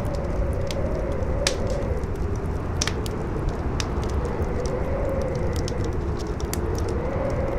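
Campfire crackling with sharp irregular pops, over strong howling wind whose pitch rises and falls in slow gusts.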